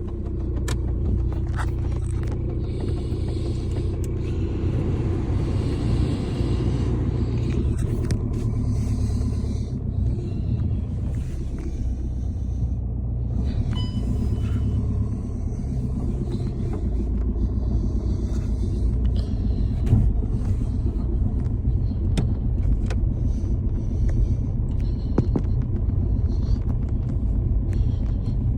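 Volkswagen Golf 5's 1.9 TDI four-cylinder turbodiesel idling steadily with diesel clatter, shortly after a cold start.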